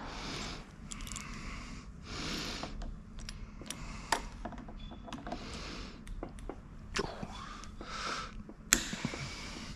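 Scattered light clicks and knocks of parts being handled, with soft rustling hiss in between, as battery modules are worked on at the bench.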